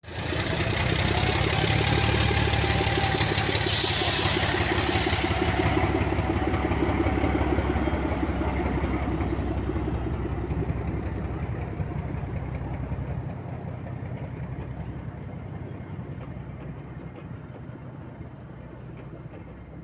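ZDM narrow-gauge diesel locomotive engine running loudly, then fading steadily into the distance. About four seconds in there is a brief hiss lasting a second or so.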